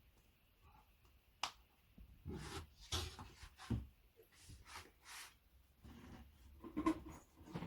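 A sharp click, then a string of short rustling, scraping noises and light knocks, of the kind made by handling flat-pack furniture parts.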